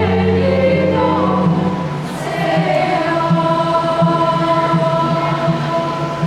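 A children's choir singing a Christmas carol in held, sustained notes over instrumental accompaniment; the low held bass tones drop out about two seconds in.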